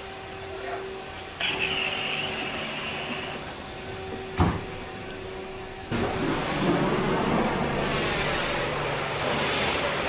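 Hand car wash pressure washer: a steady machine hum under a hissing water jet that sprays for about two seconds, stops, then starts again about six seconds in and keeps going. A sharp click sounds in between.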